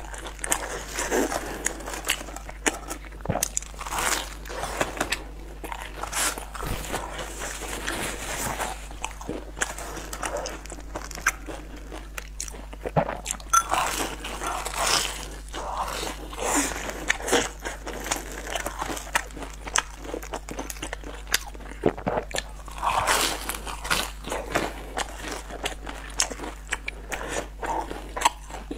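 Close-miked eating sounds: a person biting into and chewing sugar-coated twisted fried dough pastries, with crisp, irregular crunches and crackles.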